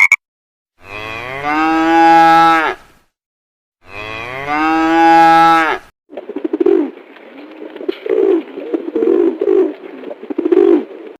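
Animal calls: two long, drawn-out calls of about two seconds each, about a second apart, followed by about five seconds of shorter, lower, rougher calls.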